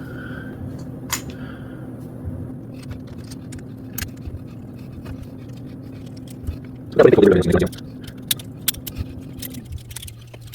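Small metallic clicks and scrapes of a hex key working the handlebar clamp bolts on an electric bike's stem, snugging them up, over a steady low hum. A brief voice sound comes about seven seconds in.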